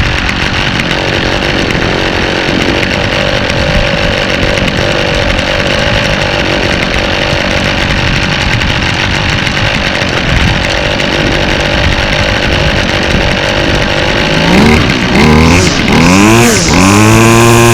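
Toro 51936 25cc two-stroke string trimmer engine idling as it warms up after a fresh start. Near the end it is revved in a few quick throttle blips, pitch rising and falling, then held at high revs.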